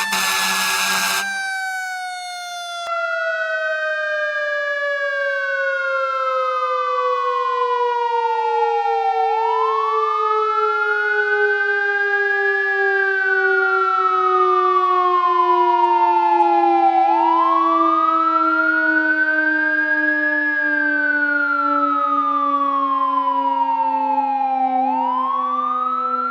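Fire truck sirens. One siren winds down in a long, slow fall in pitch. From about three seconds in, a second siren wails, rising and falling about once every eight seconds. A brief loud blast ends about a second in.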